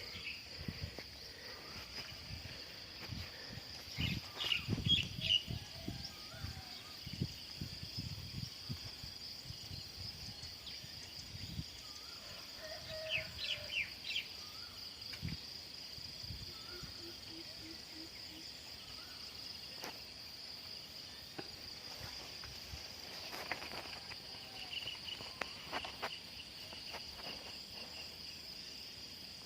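Steady high-pitched drone of insects, with a few short bird chirps, the clearest about four seconds in and again around thirteen seconds. Some low thumps come about four to six seconds in.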